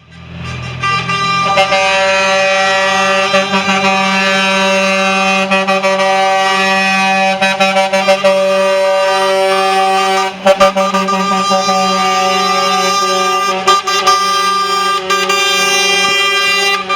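Truck air horn held on one steady note.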